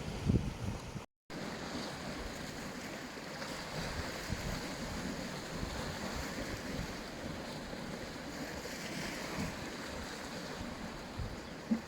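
Sea waves washing onto a beach, a steady wash of surf. Wind rumbles on the microphone in the first second, and the sound drops out completely for a split second just after that.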